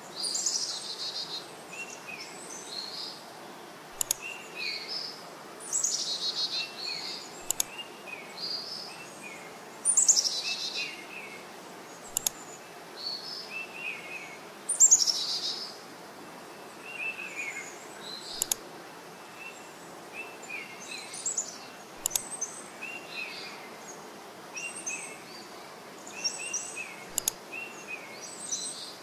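Small birds chirping and twittering in short repeated phrases over a steady outdoor hiss, with a few louder falling calls. Sharp clicks come now and then.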